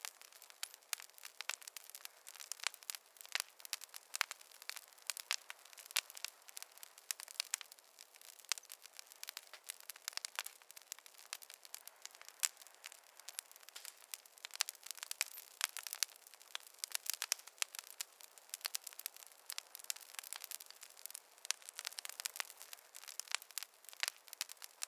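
Campfire burning, wood crackling with a dense, irregular stream of sharp pops and snaps and no deep sound beneath them.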